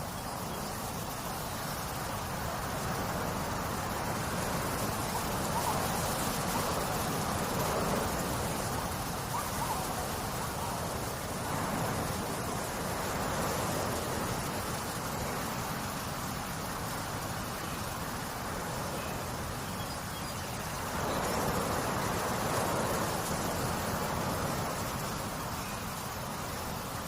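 Nature soundscape of steadily flowing water, a constant rushing hiss that swells three times.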